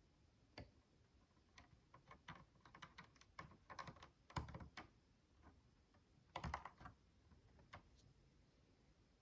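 Faint clicks and light rattling of tiny plastic micro building bricks being handled. A quick run of small clicks fills the middle, with a louder cluster about two-thirds through and single clicks before and after.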